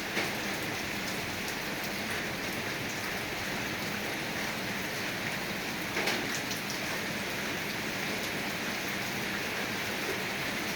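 Steady rain falling, an even hiss of drops on surfaces, with a couple of louder splashes just after the start and around six seconds in.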